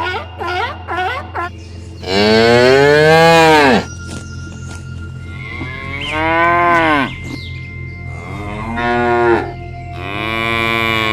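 Cows mooing: four long moos, each rising then falling in pitch, the first about two seconds in and the last running on past the end. A few short, quick calls come first, and a steady low hum runs underneath.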